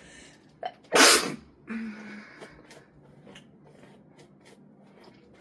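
A woman sneezes once, loudly, about a second in, then makes a short hum. The sneezing comes from a flare-up of her sinusitis.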